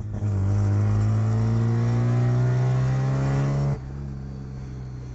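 Mazda RX3 808's engine heard from inside the cabin, pulling under acceleration with its pitch slowly rising, then dropping off suddenly about three and a half seconds in as the throttle closes, leaving a quieter steady run.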